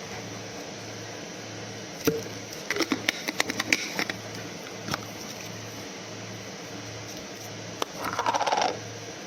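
A run of light clicks and taps of hard objects being handled, bunched about two to four seconds in, then a short scraping rustle near the end, over a low steady pulsing hum.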